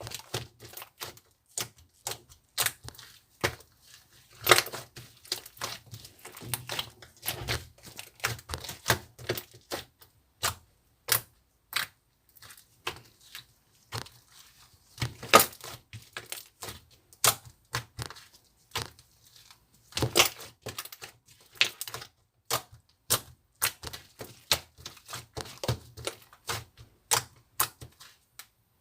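A quick, irregular run of crisp clicks and crackles with a few louder snaps and short pauses between clusters, like something being handled or pressed by hand at close range.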